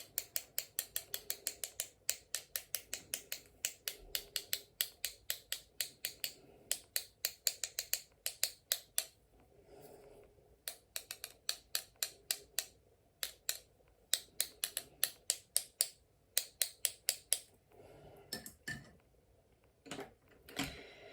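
A paintbrush tapped rapidly against a pencil, sharp light clicks at about five a second in runs with short pauses, flicking watery grey watercolour splatter onto a card.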